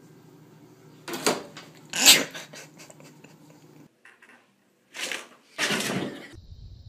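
Pet cats making short, sharp vocal sounds, four in all: two about one and two seconds in, and two more around five to six seconds in.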